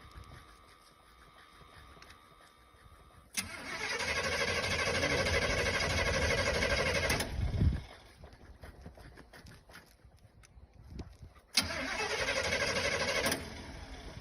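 Car engine cranking on its starter without catching: a no-start. Two tries, a long crank of about four seconds and then a shorter one of about two seconds near the end.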